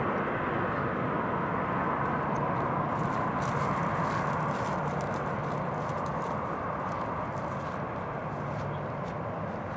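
Jet airliner engine roar with some crackle, slowly fading as the aircraft moves away.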